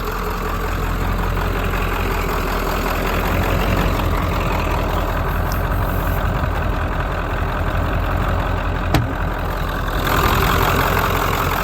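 Ford F-350's 7.3-litre turbo-diesel V8 running, with a single sharp click about nine seconds in.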